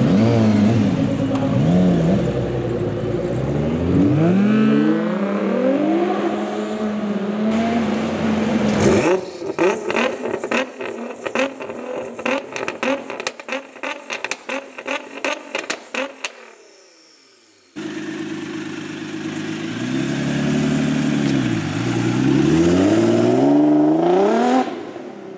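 Nissan GT-R R35's twin-turbo V6 revving, its pitch rising and falling over and over. From about a third of the way in comes several seconds of rapid, irregular exhaust pops and crackles that fade away, then more revving and acceleration near the end.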